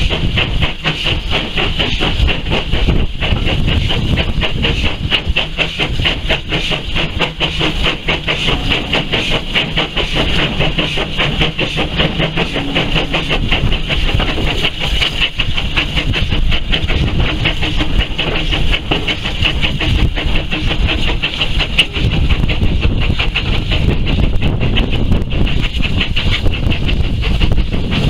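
Steam-hauled train running, heard from an open carriage window: a steady rumble of wheels on the track with hiss and rushing air.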